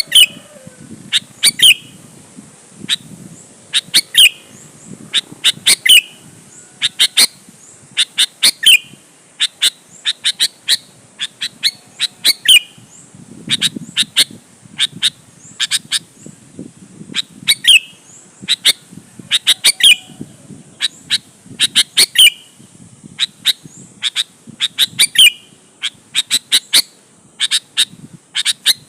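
Sooty-headed bulbul (kutilang) calling: short sharp notes, each a quick downward sweep, given in clusters of two to four every second or two.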